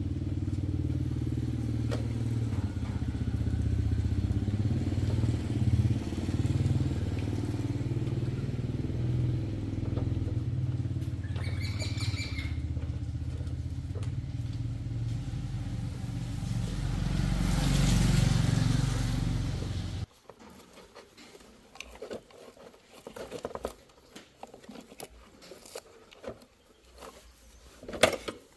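Motor vehicle noise: a steady low rumble with a short, high beep about twelve seconds in and a swell a few seconds later. It cuts off abruptly about twenty seconds in, leaving faint metallic clicks and clinks.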